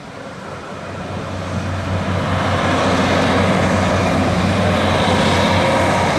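Two-car diesel multiple unit passing close across a level crossing. Its diesel engine hum and the rush of wheels on rails grow louder over the first two seconds or so, then hold steady as the train goes by.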